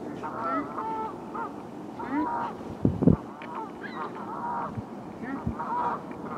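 Geese honking: a string of short calls one after another, with a brief low thump about halfway through.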